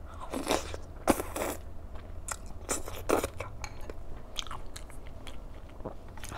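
A person chewing and biting crunchy food close to the microphone: irregular crunches, the loudest in the first second and a half.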